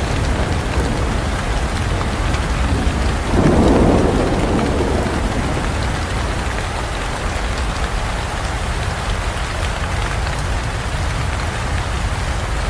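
Rain falling steadily in a forest, with a roll of thunder breaking about three seconds in and dying away over a couple of seconds.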